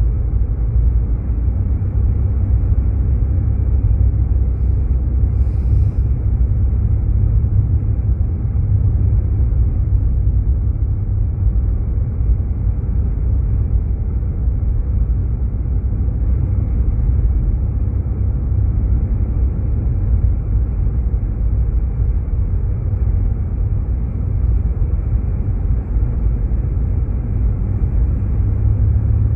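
Steady low rumble of a Jeep Grand Cherokee driving on snowy roads, heard from inside the cabin: engine and tyre noise with no breaks or changes.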